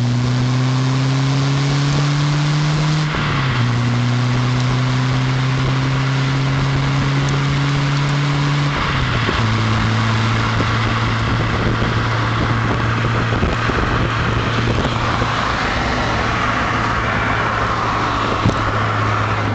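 Renault Clio 172 Cup's four-cylinder engine through a Yozza Stealth exhaust, pulling steadily up through the gears: the pitch rises slowly, drops briefly at two gear changes about 3 and 9 seconds in, then holds steady at a cruise with road and wind noise.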